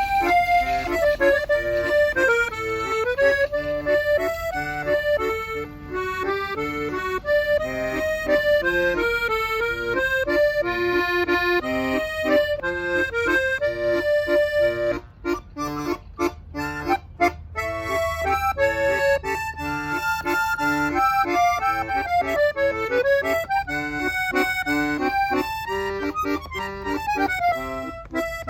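Accordion played solo: a flowing melody over bass and chord accompaniment. About halfway through, the melody breaks briefly into short, detached chords with gaps between them.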